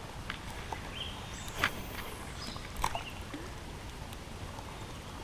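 Steady outdoor hiss of creekside ambience, broken by two short sharp clicks a little over a second apart and a brief high chirp about a second in.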